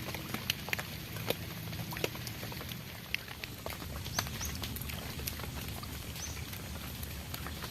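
Raindrops falling in scattered, irregular pats as the heavy rain eases, over a low steady rumble of background noise, with a few short high rising chirps.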